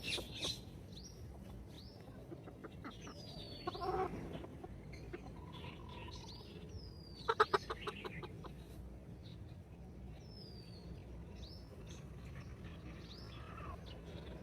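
Free-range chickens: chicks peeping in short falling high chirps, with hens clucking low now and then. About halfway through comes a short, quick run of sharp sounds, the loudest moment.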